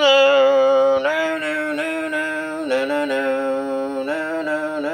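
A man singing a wordless melody in long held notes that waver slightly, moving to a new pitch every second or so.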